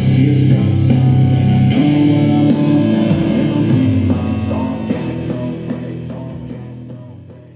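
A rap track with heavy bass and guitar plays from a JBL Charge 6 portable Bluetooth speaker set to 50% volume. The deep bass is strong at first, then the music fades away over the last few seconds.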